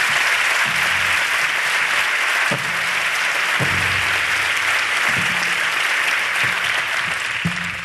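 Audience applauding steadily. The applause dies away near the end.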